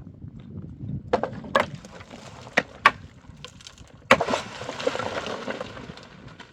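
Wood knocking and breaking: several sharp cracks, then a loud crack about four seconds in followed by a clattering rush of wood lasting nearly two seconds.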